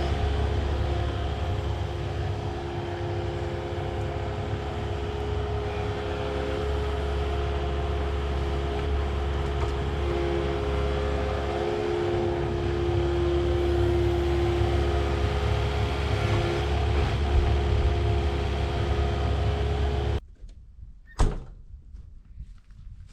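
Heavy equipment engine running steadily with a deep rumble and a steady hum. It cuts off abruptly about 20 seconds in, and a single sharp click follows about a second later.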